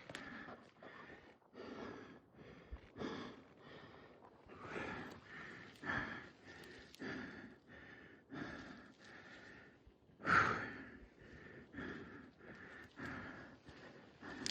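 A person breathing hard close to the microphone, about one breath a second, with one louder sharp breath about ten seconds in.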